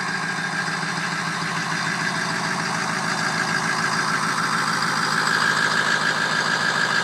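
Ford 6.0 Powerstroke V8 turbo-diesel idling with a steady diesel clatter, getting somewhat louder over the last few seconds.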